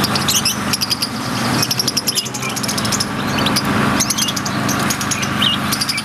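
A group of lovebirds chattering: many overlapping shrill chirps and fast trills, over a steady low hum.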